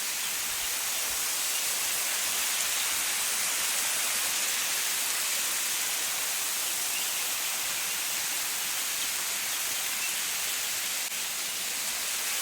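Waterfall's falling water rushing as a steady, even hiss.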